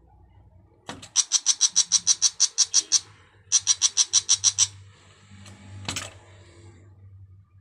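A bird calling in rapid repeated notes, about seven a second, in two runs: one of about two seconds, then after a short pause one of just over a second. A sharp click comes just before the first run and another near the end.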